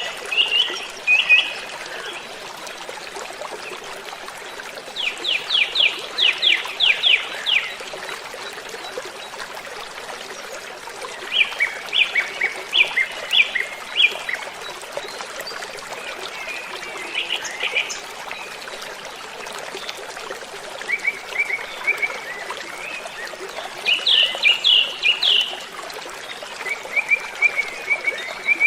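A bird singing short phrases of quick repeated high notes every few seconds, over the steady rush of a waterfall.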